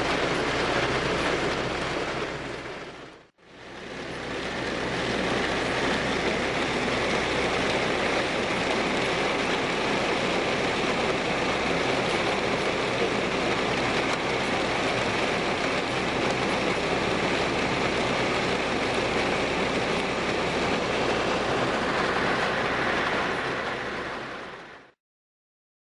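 Heavy thunderstorm downpour, a dense steady hiss of rain. It fades out and straight back in about three seconds in, then fades away near the end.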